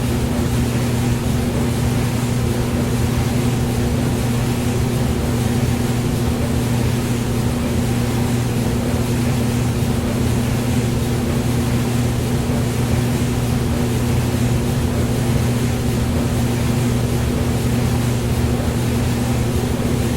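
Hair dryer running steadily: an even rush of air over a low, constant motor hum, with no change in speed or pitch.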